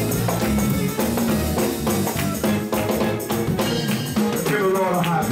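Upbeat gospel music from a church band, with drums and tambourine keeping a steady beat under a bass line.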